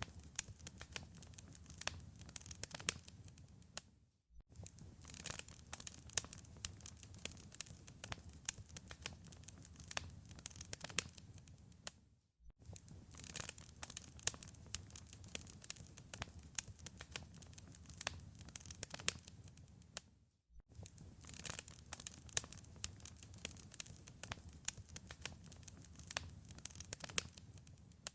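Wood fire crackling in a fireplace: a dense stream of sharp pops and snaps over a low rumble. The sound cuts out briefly three times, about every eight seconds.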